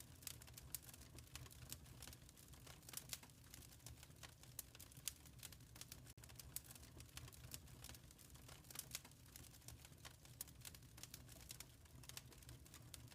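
Quiet wood fire crackling in a fireplace: irregular sharp pops and snaps over a soft low rumble of the burning.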